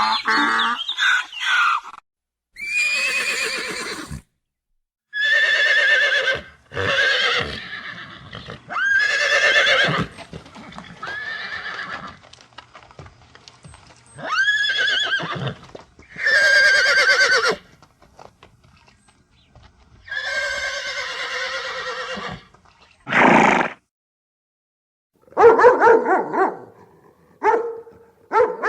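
A series of separate animal calls, each lasting one to two seconds with a quavering pitch and short pauses between them, turning to shorter, choppier calls over the last few seconds.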